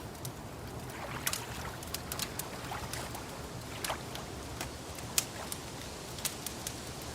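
Wood fire crackling with irregular sharp pops, the loudest a little after five seconds in, over a soft, steady wash of lapping water.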